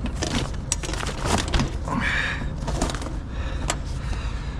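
Wind rumbling steadily on the microphone, with scattered knocks, clicks and rustles from handling the ropes and tarp.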